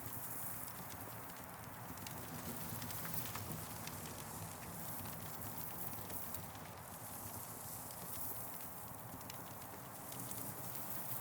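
Campfire burning: scattered sharp crackles and pops over a steady hiss.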